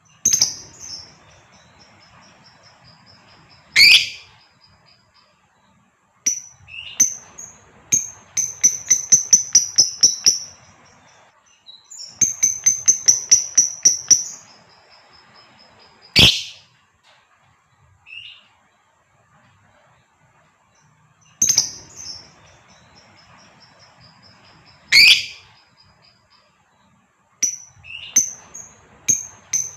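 Female lovebird calling: short, sharp high chirps that run into fast trains of evenly repeated chirps. Three louder single shrieks stand out, about 4, 16 and 25 seconds in.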